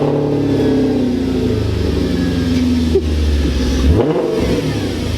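Audi RS4 B7's 4.2-litre V8 running just after start-up, its note easing steadily down in pitch for about four seconds, then a brief dip and pick-up near the end.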